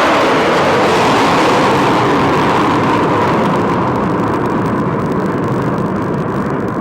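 Jet roar of a formation of three JF-17 Thunder fighters, each with a single Klimov RD-93 turbofan, passing low overhead. The loud, even roar slowly fades over the last few seconds as they move away.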